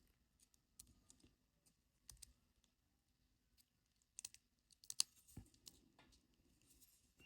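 Faint, scattered small clicks and taps of tools working on the small parts of a G-Shock watch, with a cluster of them about four to five seconds in.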